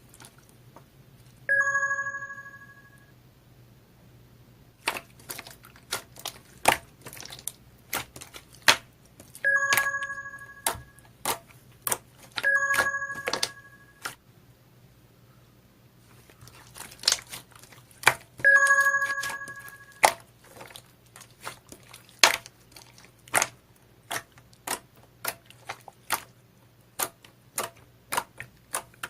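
Slime being squished and poked, making sharp clicking pops throughout, with a bell dinging four times, each ring fading over about a second.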